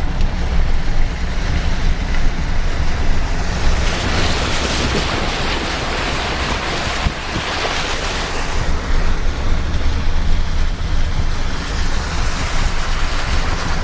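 A vehicle engine runs low and steady while its tyres churn through water and mud on a rain-soaked dirt road. A louder rush of water swells up from about four to eight seconds in.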